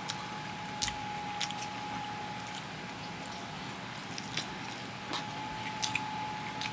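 A person eating close to the microphone: chewing and biting food, with scattered irregular small clicks and smacks. A faint steady high-pitched hum runs underneath.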